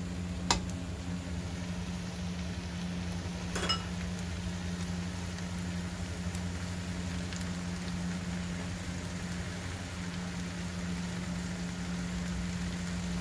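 Fried noodles sizzling in a wok over a steady low hum, with a metal spatula clinking against the wok twice, about half a second in and again near four seconds, the second clink ringing briefly.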